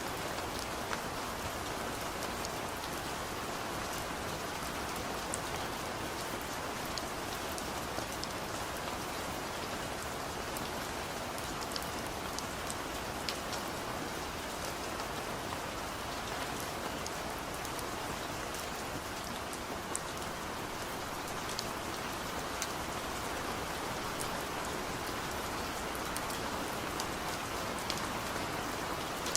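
Steady rain falling on a surface, with a constant hiss and many small drop ticks scattered through it.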